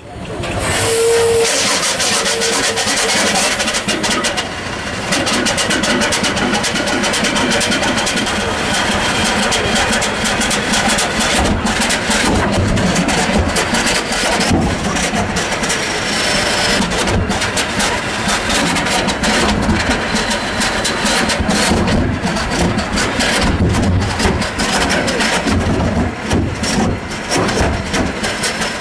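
A 1962 Duvant 9BOS nine-cylinder, 330-litre engine running with a low, pulsating rumble and hissing; a short steady tone sounds about a second in.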